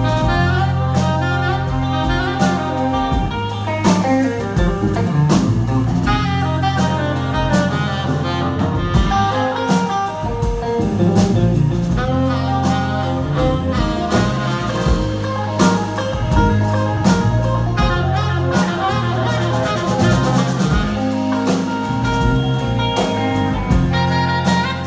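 A live band playing jazzy instrumental music, with a steady bass line, regular drum hits and a lead instrument carrying the melody.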